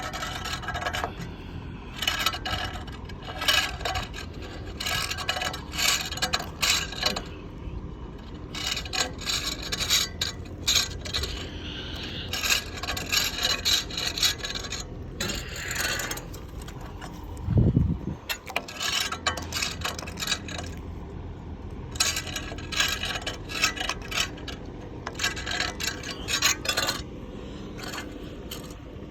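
Hard scraping and rubbing in repeated bouts of a second or two, with one heavy low thud a little past halfway.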